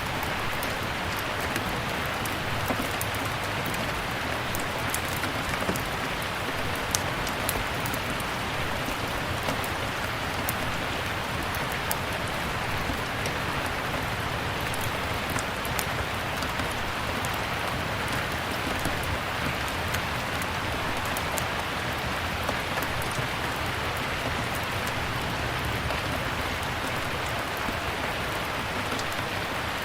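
Steady rain, with scattered sharp crackles from a wood fire in a fireplace.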